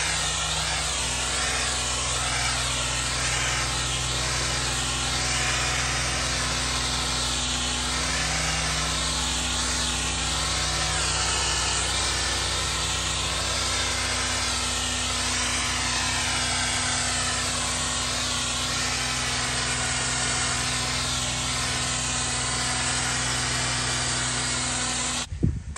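A 20-inch Hammerhead surface cleaner spraying concrete, driven by a 4 gpm pressure washer: a loud, steady hiss of high-pressure water over the constant hum of the pressure washer. The sound cuts off suddenly near the end.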